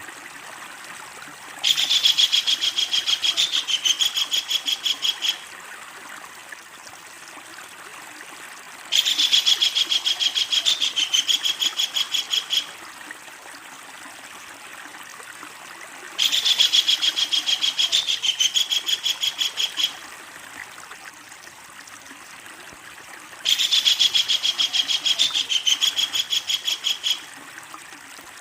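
Kingfisher giving its long, loud rattling call: a fast run of evenly repeated high notes lasting about three and a half seconds, four times at even intervals. A steady stream runs underneath.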